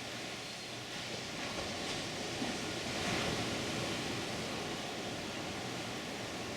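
Ocean surf breaking and washing ashore, a steady rush that swells a little about three seconds in.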